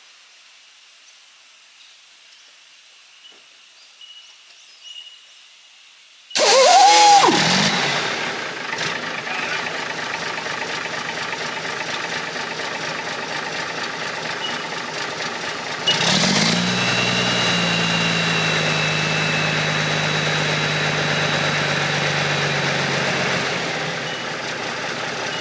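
Diesel engine started: about six seconds in it cranks and fires with a loud burst, then settles to a steady idle. About ten seconds later it picks up to a higher, steady running speed.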